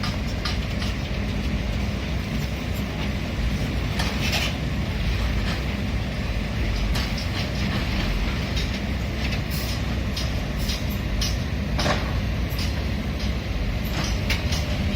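Heavy diesel construction machinery running steadily with a low rumble, with scattered metallic clanks and knocks, the loudest a few seconds in and just before the end.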